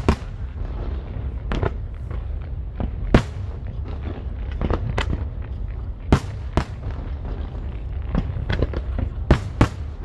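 Aerial fireworks shells bursting at irregular intervals, about a dozen sharp bangs with smaller crackles among them, over a steady low rumble. The loudest bangs come about three seconds in, twice around six seconds, and twice near the end.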